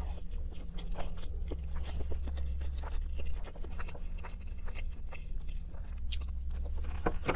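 Close-up mukbang eating sounds: mouth chewing and crunching on food, with a plastic fork scraping and clicking in a plastic takeout container, over a steady low hum.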